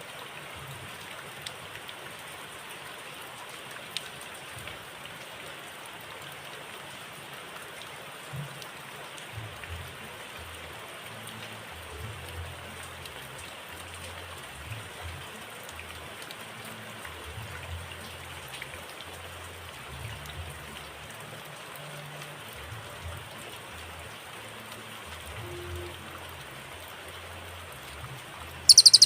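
Steady rain-like background hiss with scattered faint ticks during a pause in the birdsong. Near the end a loud, high-pitched cililin song phrase breaks in.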